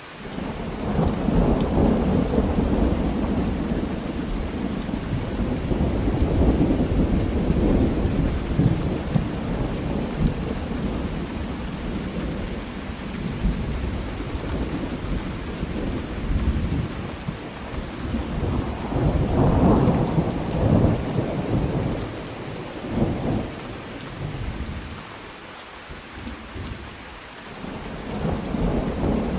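Thunderstorm: steady rain with rolling thunder. A long rumble swells in right at the start, another peaks about two-thirds of the way through, and a third builds near the end after a brief lull.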